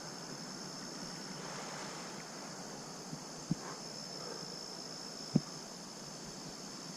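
Steady high-pitched trilling of insects over quiet outdoor hiss, broken by a few short, dull knocks, the loudest about five seconds in.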